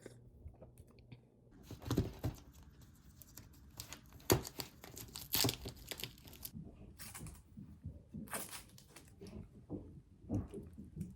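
Irregular crinkling and rustling with sharp clicks and knocks, as of things being handled and packed.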